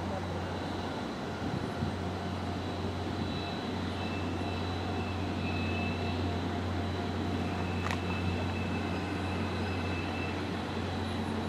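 Steady low hum of a train standing at a station platform, with faint high whining tones coming and going and one sharp click about eight seconds in.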